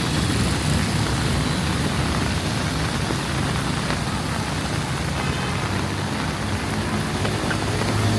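Heavy rain falling steadily, with the low hum of road traffic running underneath.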